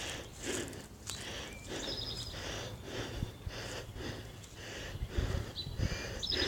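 A person breathing hard in quick puffs, about two a second, while walking up a steep hill. Brief high trilled bird chirps come about two seconds in and again near the end.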